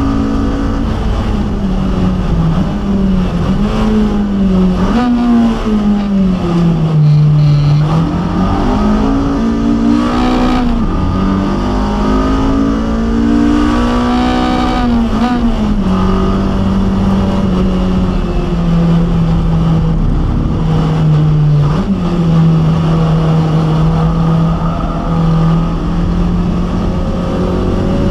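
A Honda K24 four-cylinder swapped into a mid-engine Toyota MR2 Spyder, running hard at high revs on track and heard from inside the cabin. The pitch climbs under acceleration and falls with shifts and braking, holds steady for long stretches, and jumps up briefly about three-quarters of the way through.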